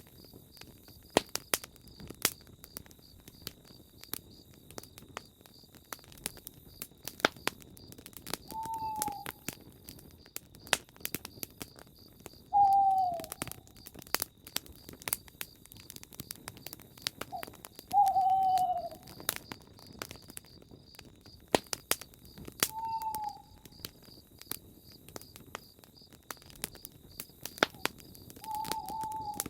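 Campfire crackling with irregular sharp pops, while a bird hoots a short falling note every four to six seconds over a steady, high-pitched pulsing trill.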